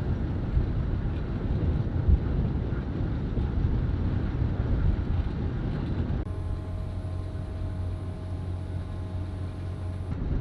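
Ship's machinery running, a low rumble mixed with wind buffeting the microphone. About six seconds in, the sound changes abruptly to a steadier low hum with a few faint steady tones.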